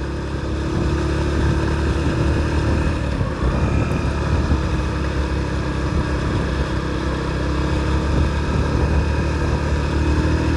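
Motorcycle engine running steadily under load on a steep uphill climb, struggling to pull up the slope.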